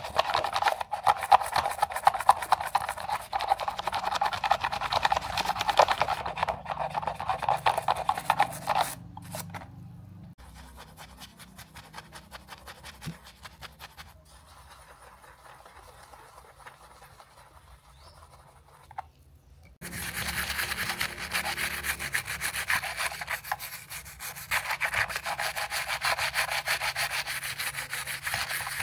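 Rapid back-and-forth scrubbing on a 1:18 scale model car, loud for the first nine seconds or so, softer through the middle, then loud again from about twenty seconds in.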